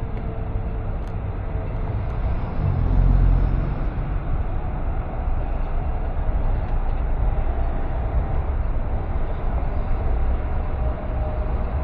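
Car driving on city streets: steady road and engine rumble, swelling louder for a moment about three seconds in.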